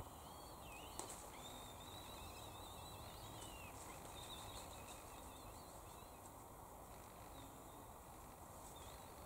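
Faint, thin, wavering bird song over quiet background hiss, with a soft click about a second in.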